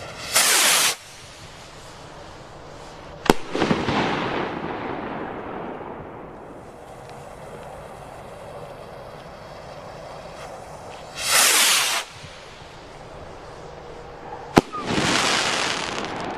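Piromax PXR219 45 mm rocket battery firing two rockets. Each leaves its tube with a short rushing whoosh, then about three seconds later bursts with a sharp bang followed by a few seconds of fading crackle.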